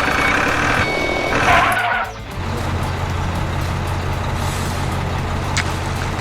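Construction-vehicle sound: two high beeping or horn-like blasts in the first two seconds, then a steady low engine drone.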